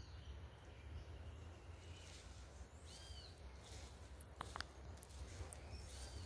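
Faint outdoor ambience: a low steady rumble with a few short bird calls, including an arching chirp about three seconds in and brief high whistles a little later.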